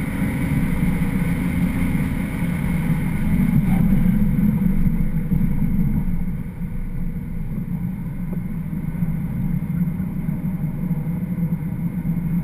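Engine and road noise of a BMW 335xi, twin-turbo straight-six, heard from inside the cabin at track speed. The sound is steady, then drops a little about six and a half seconds in as the car nears a corner.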